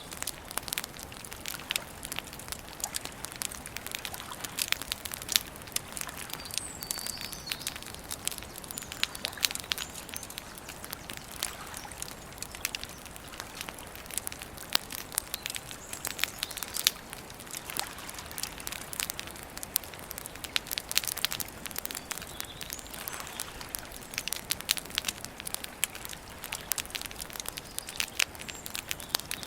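Wood campfire crackling, with many irregular sharp pops and snaps over a soft steady hiss.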